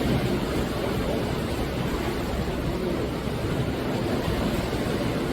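Sea waves breaking on the shore: a steady, rushing wash of surf, slightly louder at the start and then easing a little.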